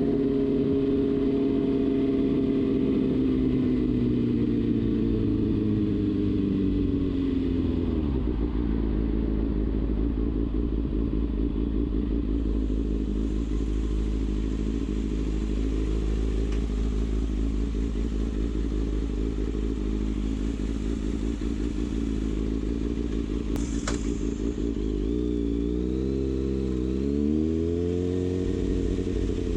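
Kawasaki Ninja ZX-6R inline-four engine running on the highway: the revs fall away over the first eight seconds or so, settle into a steady low drone, then swing up and down a few times and climb again near the end. A single short click is heard about three quarters of the way through.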